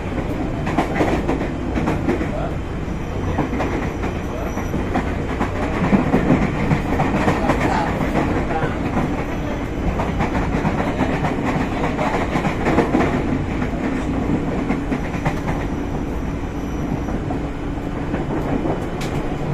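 Running noise inside a Tokyu 8500 series electric train's motor car moving along the line: a steady rumble from the wheels and running gear, with occasional clacks over the rail joints.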